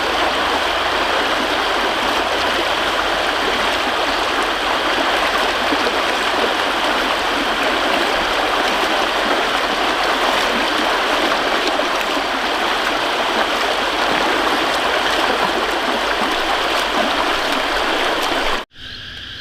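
Steady rush of running water, like a stream flowing. It cuts off suddenly near the end, giving way to a much quieter background.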